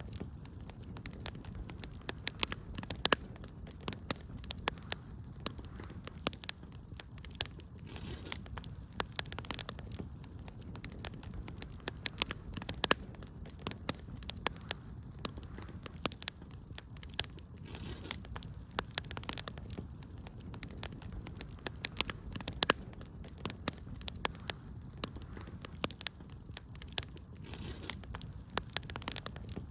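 Wood fire burning in a fireplace, with frequent sharp, irregular crackles and pops over a steady low rumble.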